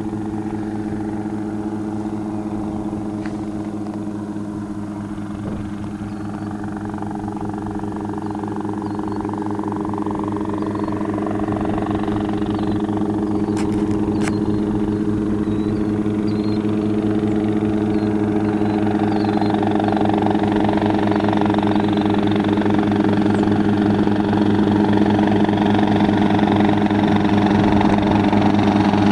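Helicopter rotor and engine running steadily with a fast, even beat, gradually growing louder over the second half.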